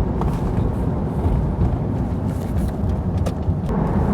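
Car interior road and engine noise while driving: a steady low rumble of tyres and engine.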